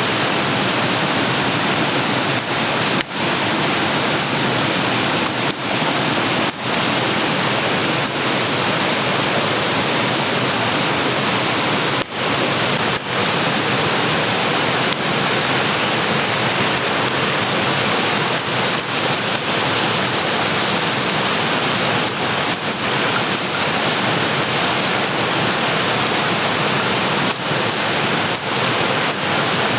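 Food sizzling in a pan over a campfire: a steady, dense hiss with a few brief dips.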